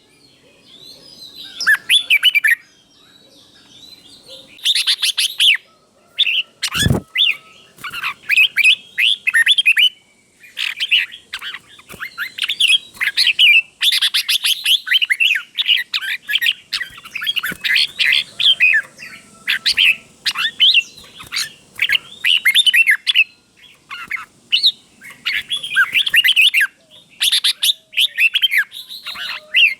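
Red-whiskered bulbul singing: bursts of quick, bright warbled phrases follow one another with short pauses, in the doubled-phrase style that keepers use as a model song for young caged bulbuls. A single knock about seven seconds in.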